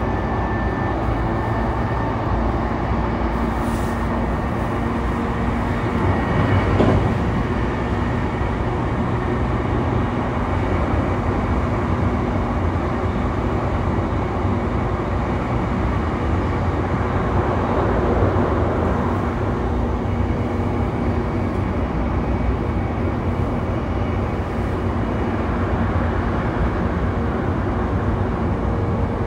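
Running sound of a JR East E233-3000 series electric train, heard aboard motor car MoHa E233-3639, which has MT75 traction motors and Hitachi IGBT-VVVF control. The train runs steadily at speed: a constant rumble of wheels on rail with a faint steady motor hum, and a brief louder swell about seven seconds in.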